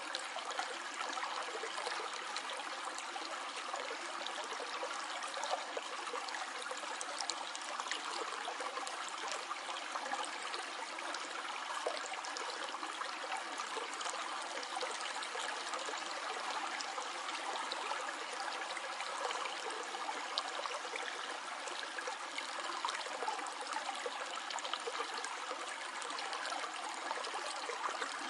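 Small stream flowing and trickling steadily over rocks, a continuous babbling rush of water.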